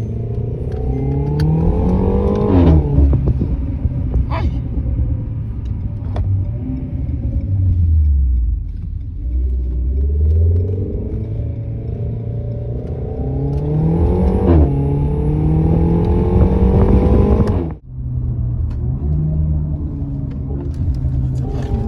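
Renault Mégane RS's 1.8-litre turbocharged four-cylinder engine accelerating hard twice, its note climbing in pitch and ending each time in a sharp crack. A few more cracks follow as the revs fall back after the first pull.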